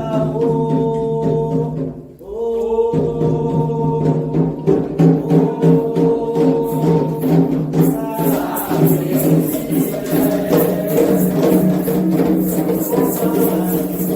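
Candomblé devotional chant: a group of voices singing long held notes together over steady percussion. About eight seconds in, a brighter, faster rattling beat thickens the rhythm.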